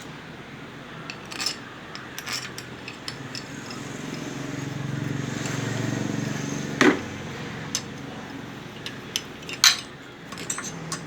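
Metal clinks and knocks of hand tools and engine parts being handled, with two sharper knocks about seven and ten seconds in. A low hum swells and fades in the middle.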